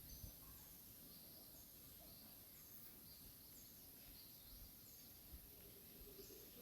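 Near silence: faint outdoor ambience with a short high chirp repeating about once a second over a steady thin hiss, like a small bird or insect calling.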